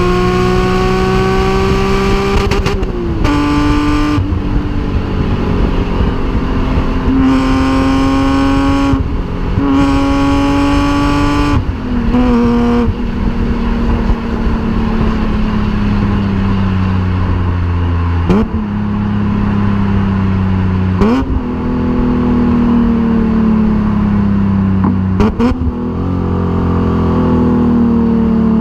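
BMW E36 M3 3.2's straight-six engine through a homemade exhaust, driven hard. Its pitch climbs under acceleration and drops sharply at several gear changes in the first dozen seconds, then sinks slowly as the car slows, broken three times by a brief sharp jump in the sound.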